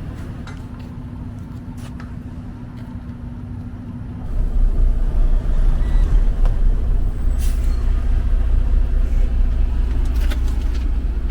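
Semi truck running, with a steady low rumble that grows much louder about four seconds in and then holds, and a few light knocks.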